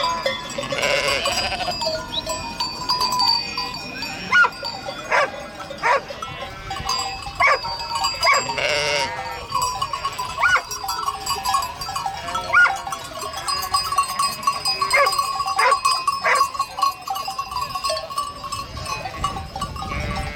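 Farm livestock calling: many short bleating calls from several animals, overlapping one another.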